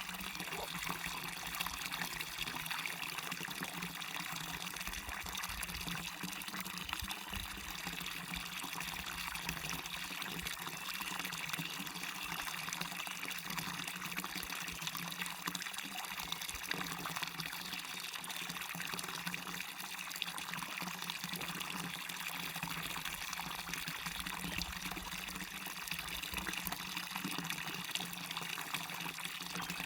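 Waterfall and river water splashing and rushing steadily, a bright, hissing rush with little low rumble.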